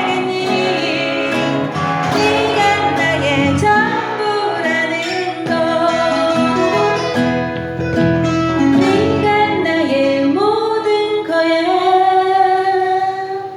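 A woman singing a ballad to strummed and plucked acoustic guitar. She ends the phrase on one long held note near the end, and then the music fades.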